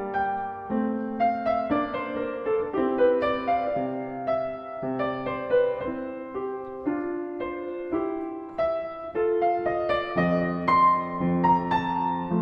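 Solo piano playing a slow classical piece, a sustained melody over a moving lower line.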